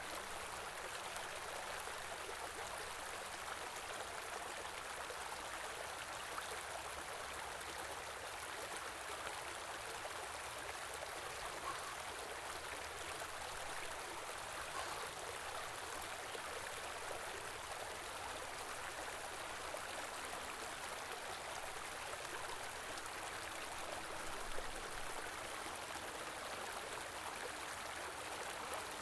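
Stream running steadily, a continuous even rush of flowing water.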